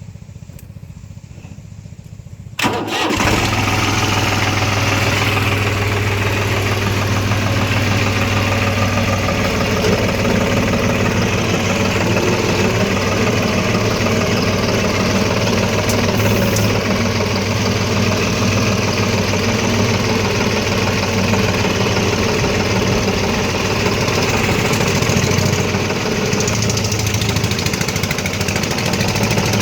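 Tractor diesel engine starting up about two and a half seconds in, then running steadily.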